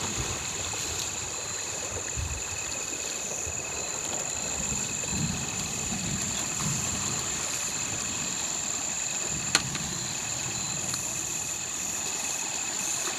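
Steady, high-pitched chorus of night insects such as crickets, two even trilling tones held throughout, over uneven low rumbling. One sharp click comes about nine and a half seconds in.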